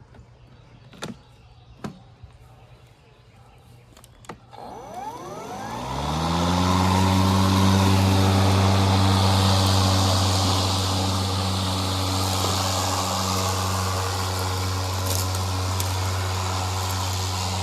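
A few sharp clicks, then about four and a half seconds in a motor spins up, rising smoothly in pitch over a second or so, and runs on at a steady, loud hum: an EGO 56 V battery-powered lawnmower's electric motor starting and running at cutting speed.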